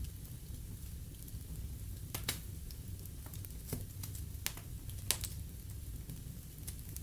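Fire burning in a fireplace: a steady low rumble with irregular sharp crackles and pops, the loudest a few about two to five seconds in.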